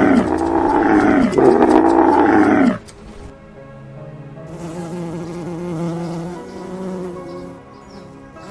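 Two long, loud, buzzy animal calls back to back, each dropping in pitch at its end, in the first three seconds; then a much quieter, steadier low-pitched sound.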